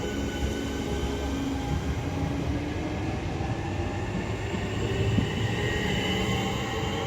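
Southeastern Class 465/466 Networker electric multiple unit pulling away and accelerating, its traction motors whining in several tones that slowly rise in pitch over a steady rumble.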